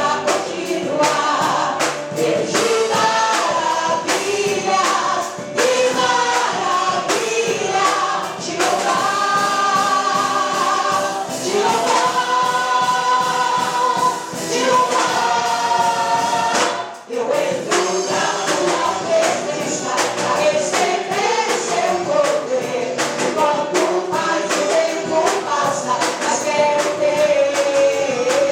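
Gospel music: a choir singing over a band with a steady beat, breaking off for a moment more than halfway through before coming back in.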